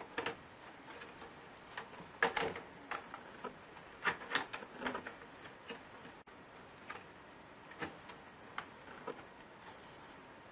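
Irregular small clicks and taps of laptop parts and tools being handled during disassembly, some in quick clusters with short pauses between.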